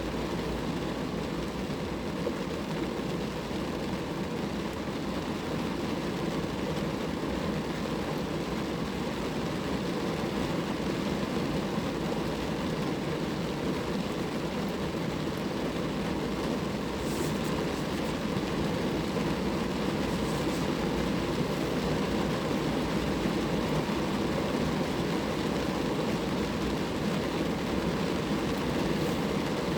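Steady rain falling on a car, an even wash of drops with no break.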